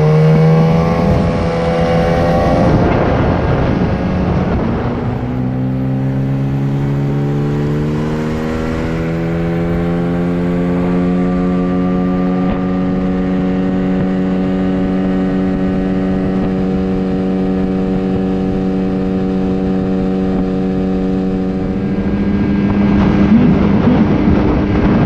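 A 9.8 hp outboard motor run at full throttle from a standing start. Its pitch climbs, falls back briefly about three seconds in, then climbs again and settles into a steady high-revving drone. Rushing wind and water noise grows near the end.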